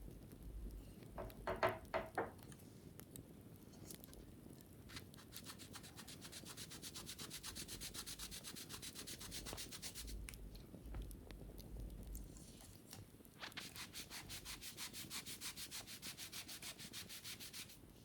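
A wicker basket being scrubbed with quick, even back-and-forth strokes, about four a second, in two long runs. A few sharp taps with a short ring come before them.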